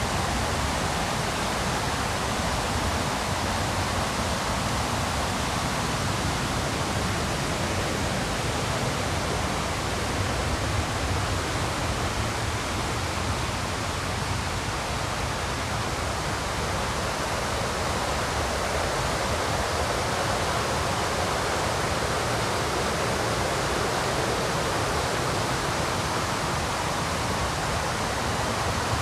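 River rapids rushing: a steady, unbroken wash of flowing water.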